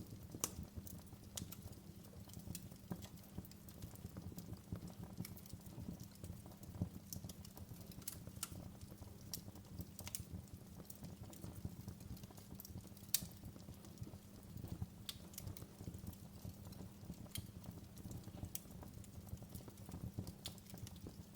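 Wood fire in a fireplace crackling: irregular sharp pops and snaps over a low, steady rumble of the flames, with a couple of louder pops.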